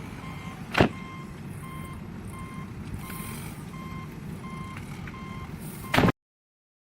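Vehicle reversing alarm beeping about twice a second over the low running of an engine, with a loud bang about a second in and another about six seconds in, after which the sound cuts off.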